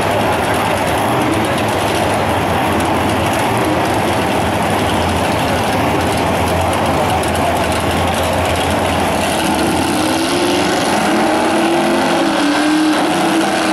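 Drag-racing car engines running at the start line, a loud steady din. From about two-thirds of the way in, a wavering engine note rises out of it as one car begins to rev.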